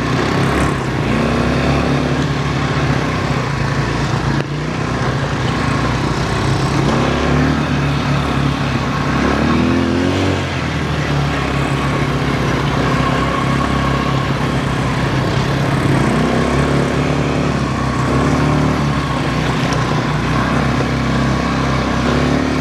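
Quad bike (ATV) engine running while riding, its pitch rising and falling several times as the throttle is opened and eased off, over steady wind and tyre noise.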